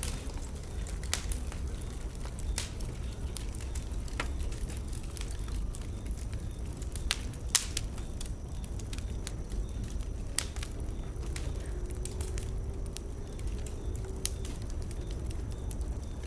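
Wood bonfire burning: a steady low rumble with scattered sharp pops and crackles, one louder pop about seven and a half seconds in.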